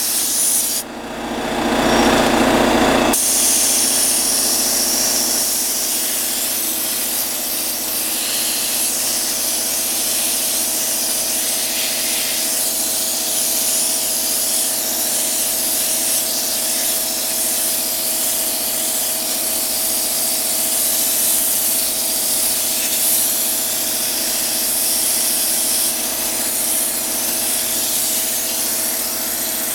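Steady hiss of a cleaning sprayer jetting water, over the even hum of its pump motor. About a second in, the hiss drops out for two seconds while a deeper, louder sound takes over.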